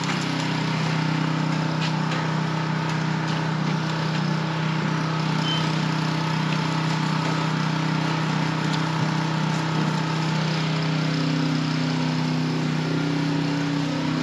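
A motor running steadily at an even speed: a constant hum with a hiss above it, unchanged throughout.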